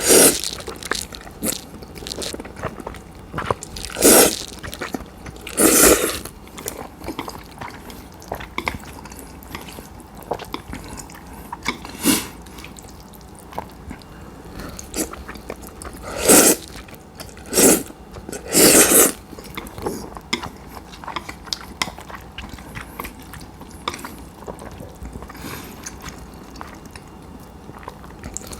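Cold udon noodles being eaten close to the microphone: about seven loud slurps of half a second to a second each, with quieter wet chewing clicks between them.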